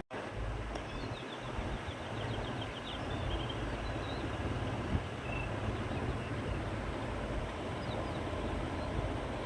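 Steady wind blowing with a low rumble, with faint high bird chirps in the first few seconds.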